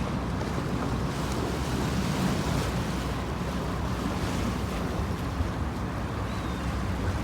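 Wind buffeting the microphone over water rushing past the hull of a sailboat under way: a steady rush with no distinct events.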